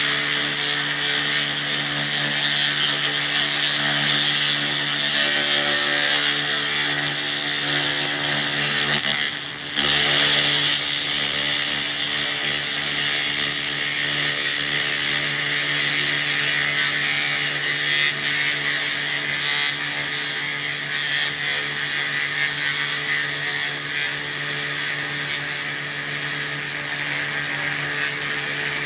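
2000-watt laser rust remover running steadily: a machine hum under a hissing crackle from the beam working the rust, dropping briefly about nine and a half seconds in.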